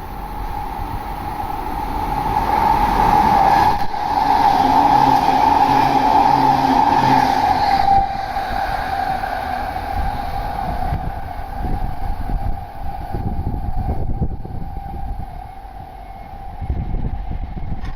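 Electric passenger train passing through a station at speed, its wheels and running noise building to their loudest in the first half, then trailing off, with a steady high tone running through it.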